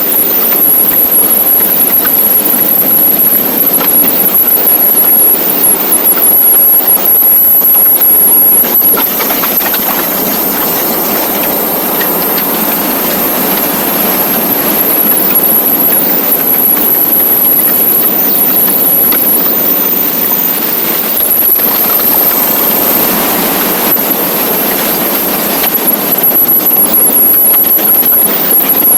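Motorcycle on the move: a steady rush of wind and road noise with the engine running under it, swelling and easing a little in loudness.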